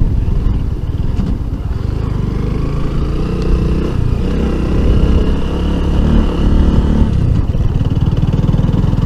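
Honda CB190X single-cylinder motorcycle engine running steadily while under way, a dense low rumble with a fast even pulse, starting abruptly with no fade-in.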